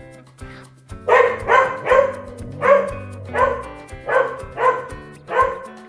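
A dog barking: a run of short barks from about a second in until near the end, over light background music.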